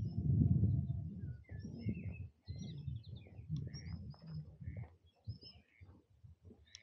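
Songbirds chirping and trilling in many short, high calls, over an uneven low rumble that is loudest in the first second.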